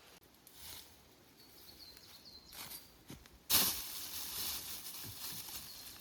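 Outdoor forest sound: a string of short, faint, high chirps in the first half, then a sudden loud rustle about three and a half seconds in, followed by continued brushing and rustling.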